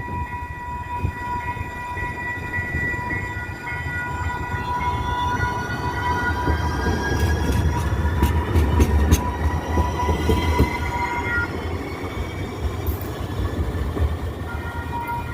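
Electric light rail train running and picking up speed, with a whine that rises in pitch from its electric drive over a rumble of wheels on rail. The rumble swells toward the middle and a few sharp clicks sound there. A steady tone holds underneath throughout.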